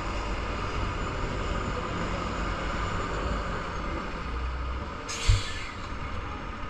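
Gravel truck's diesel engine running steadily, with a short air-brake hiss and a thump about five seconds in.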